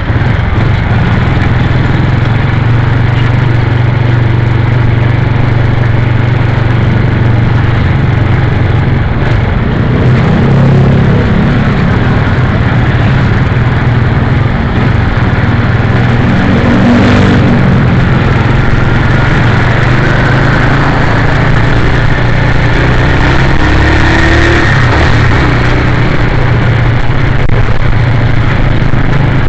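Motorcycle engine running steadily while riding, its low hum under a loud, even rushing noise. The engine note shifts up and down a few times in the middle.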